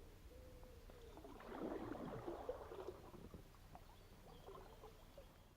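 Faint splashing of a canoe paddle in the river water, loudest about two seconds in, then fading away near the end.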